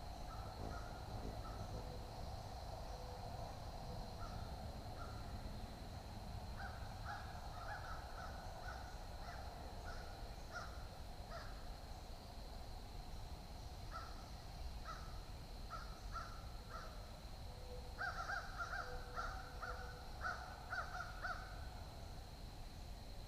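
Birds calling outdoors in series of short, repeated harsh notes, the loudest run coming near the end, over a steady high thin tone and a low background rumble.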